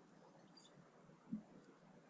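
Near silence of a garden with a couple of faint, short, high bird chirps about half a second in and a single soft low thump past the middle.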